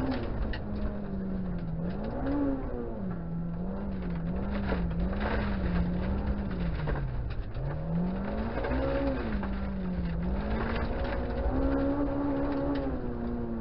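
Honda Integra DC2's four-cylinder engine heard from inside the cabin, revving up and down as the car is driven hard on a dirt-trial run. The pitch climbs and falls again and again, with a quick wavering run of short throttle changes a few seconds in, and scattered ticks and knocks over it.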